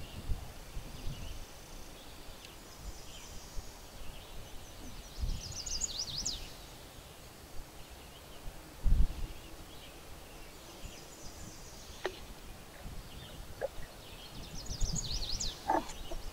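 A songbird sings a quick high trilling phrase twice, about ten seconds apart, among other faint chirps. Low rumbles of wind on the microphone come and go, the loudest gust a little past halfway, with a few light clicks near the end.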